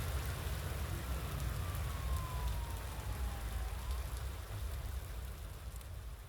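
Emergency vehicle siren wailing in the distance, one slow fall in pitch and then a rise at about four seconds, over a steady hiss and low rumble; everything fades out toward the end.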